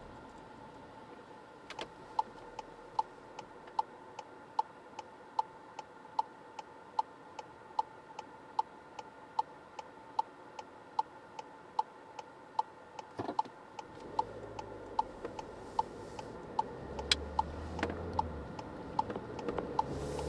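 Car turn-signal indicator ticking steadily in the cabin, about one tick every 0.8 seconds, each with a short ringing tone. Low car noise rises slightly in the last few seconds.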